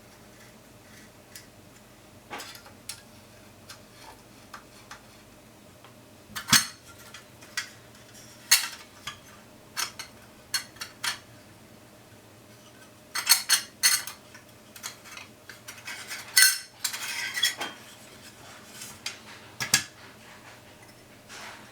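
Small metal tools and camera parts clicking and clinking against a work surface in irregular knocks, with a quick run of clicks about two thirds of the way in and a brief scrape after it, as the camera is taken apart and serviced.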